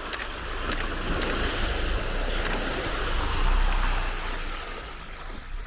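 A 4x4 vehicle driving past over dirt, a rough rumbling noise that swells to its loudest about three and a half seconds in and then fades.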